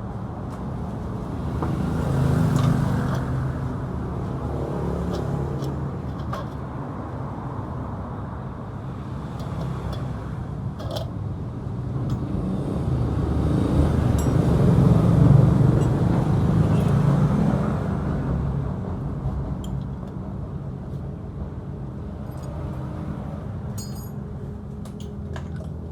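Motorcycle engine running, its pitch and level rising twice, briefly about two seconds in and longer about fourteen to seventeen seconds in, with a few light metallic clinks near the end.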